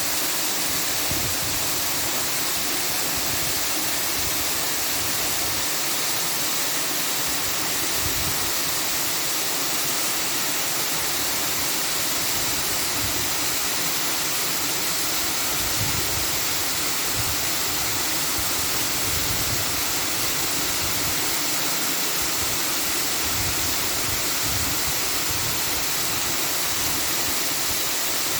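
A steady, even rushing noise with no breaks or strokes, strongest in the high range.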